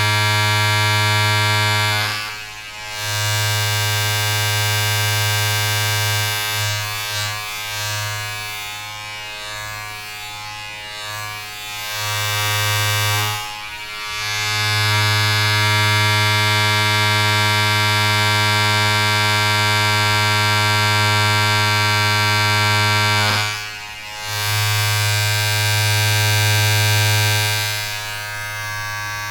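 A steady, low electric buzz with many overtones, like a small motor running. It breaks off briefly about two and a half seconds in and again around fourteen and twenty-four seconds, wavers unsteadily for several seconds in the middle, and drops lower near the end.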